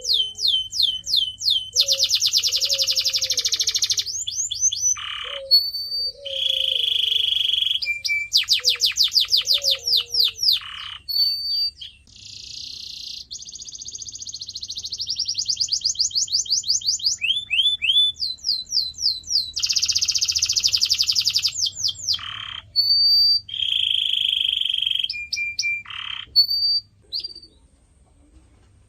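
Canary singing: phrases of fast trills and rolls of rapidly repeated high notes, broken by short single whistled notes. The song stops about two seconds before the end.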